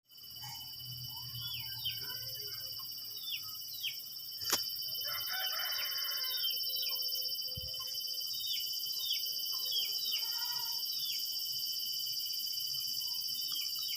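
Outdoor chorus of insects trilling steadily at a high pitch, with a bird repeating short, downward-slurred whistle notes many times over. A busier burst of bird calling comes about five seconds in, and a single sharp click just before it.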